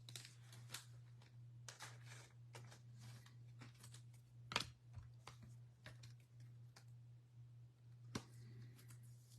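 Faint, irregular clicks and taps like typing on a computer keyboard, with a couple of sharper clicks, over a steady low hum.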